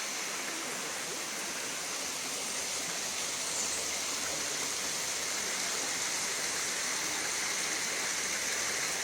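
Steady hiss of rushing water, even and unbroken.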